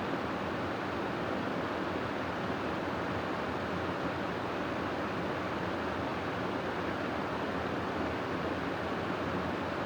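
Wind blowing steadily: an even, unchanging rushing noise with no gusts or breaks.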